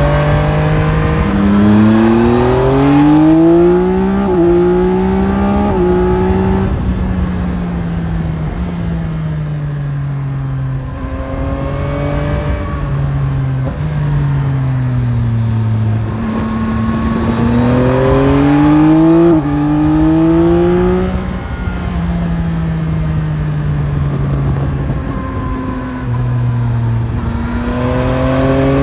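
Yamaha Tracer 9 GT's CP3 inline-three engine heard from the rider's seat, pulling up through the gears with quick upshifts, then easing off and winding down, twice over, and starting to pull again near the end.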